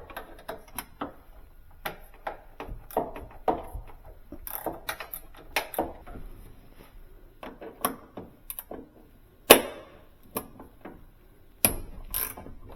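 Hand tools working the remaining bolts of a refrigerator door hinge: irregular metal clicks and knocks, with one sharper knock about nine and a half seconds in.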